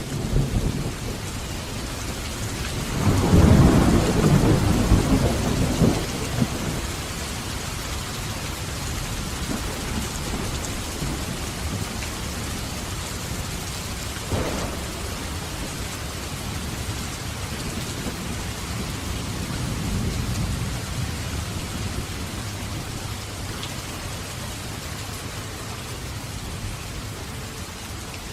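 Steady heavy rain with thunder: a loud low rumble of thunder about three seconds in that lasts some three seconds, a short sharp crack about halfway, and a softer rumble later.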